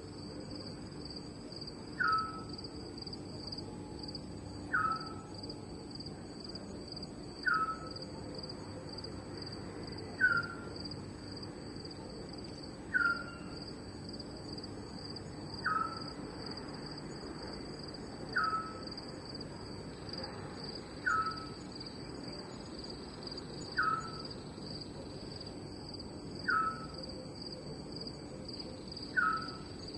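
Night ambience: crickets trilling steadily, with a short, falling call from another animal repeated regularly about every two and a half to three seconds.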